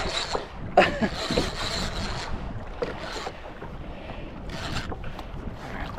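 Wind buffeting the microphone over sea water washing against a kayak's hull, with scattered short splashes and knocks.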